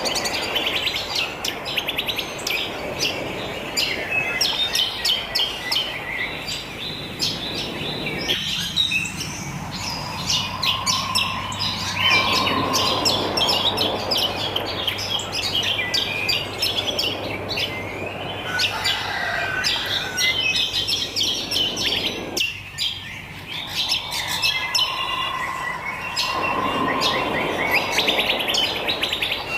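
Many wild birds chirping and twittering at once, dense and overlapping, over a steady background hiss that drops away briefly twice.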